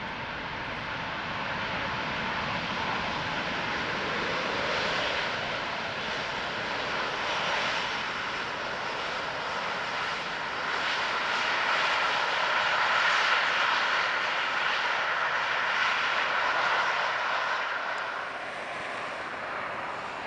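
Engine noise from a landing Airbus A380-861's four Engine Alliance GP7270 turbofans, a steady jet roar that builds to its loudest in the middle and eases off near the end.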